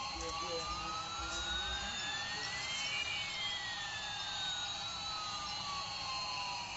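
Toy aeroplane's jet-engine sound effect: a steady hiss with two tones gliding at once, one rising and one falling, which cross about halfway through.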